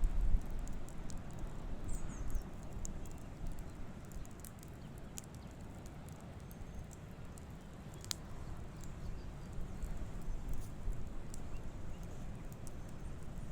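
Wood campfire crackling, with scattered sharp pops and one louder pop about eight seconds in, over a steady low rumble.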